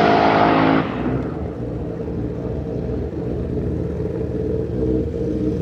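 Twin-turbo LS V8 drag car engine at high revs that lets off just under a second in, then runs on at low revs with a steady low rumble.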